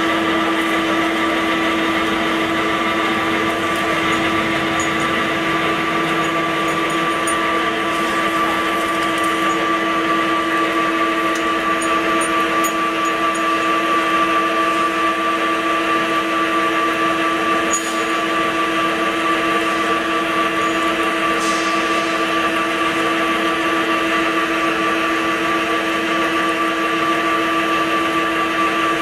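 CNC vertical drilling machine running with a steady, unchanging whine of several pitches.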